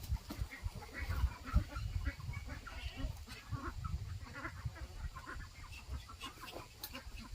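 A flock of domestic fowl keeps up many short clucking calls, over a low rumble with a few dull thumps.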